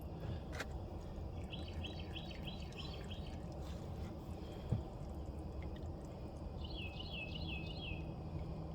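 A songbird singing two short phrases of quick repeated chirps, about a second and a half in and again near the end, over a steady low rumble.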